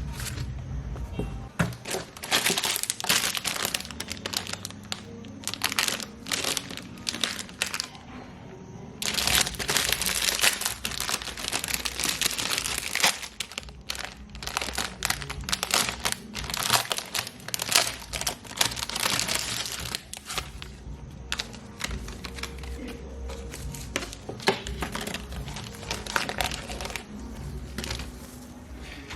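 Gift packaging crinkling and rustling in irregular bursts as it is handled and unwrapped, over background music.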